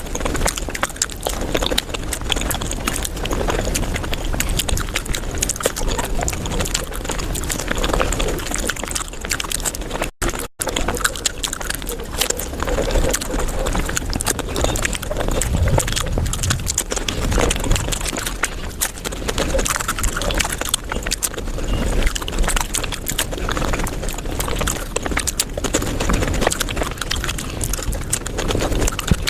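Close-miked eating sounds of dahi puri sped up fivefold: a dense, rapid run of crunching, chewing and wet mouth clicks. It cuts out twice very briefly about ten seconds in.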